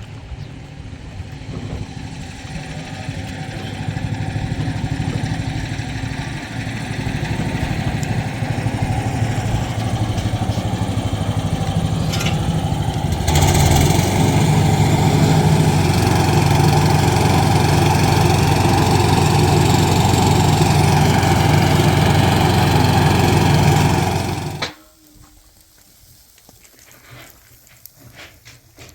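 An engine running steadily, growing louder over the first half and louder again about halfway through, then cutting off abruptly about three-quarters of the way in.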